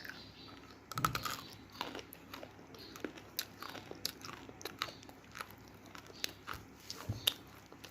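A person biting into and chewing crunchy roasted multani mitti (fuller's earth clay), with a loud crisp bite about a second in, repeated short crunches, and another sharp bite near the end.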